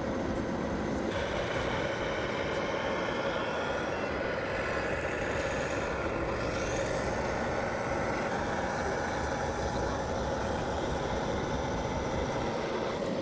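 Remote-control toy tractor running, a steady whir with a constant whine.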